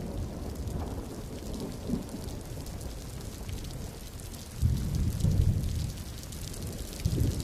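Steady rain falling, with thunder rumbling low underneath; the rumble swells louder about two-thirds of the way in and again near the end.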